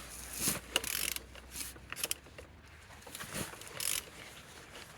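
Scattered clicks and short scrapes as a car engine is turned over by hand with a wrench on the crankshaft, to show it rotates freely.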